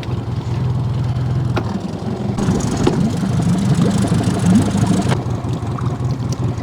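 Boat motor running steadily at low speed, with a rushing noise added from about two and a half to five seconds in.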